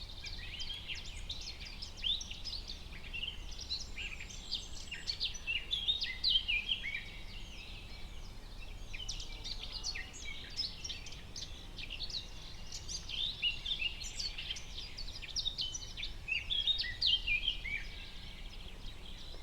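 Forest ambience: a chorus of several songbirds chirping and twittering in many short overlapping notes, over a faint low background hum.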